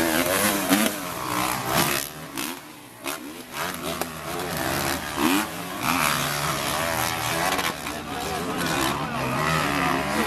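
Motocross motorcycle engines revving up and down as the bikes race, several at once, easing off for a moment about two seconds in.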